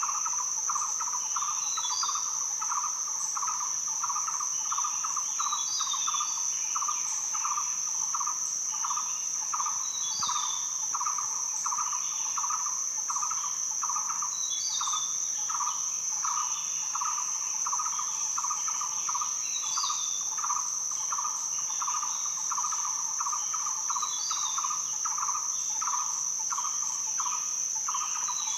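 A steady, high-pitched insect drone with a lower pulsing call repeating a few times a second, and a bird giving a short chirp about every four seconds.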